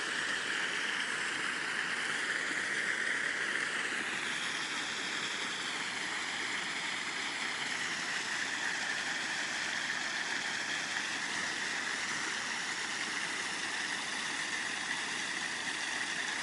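Steady outdoor background noise: a constant, even hiss with no distinct events.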